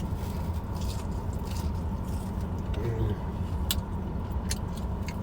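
Close-up eating sounds: a mouthful of fried fish being chewed, with sharp crunches and wet mouth clicks, over a steady low hum. A short voiced "mm" about three seconds in.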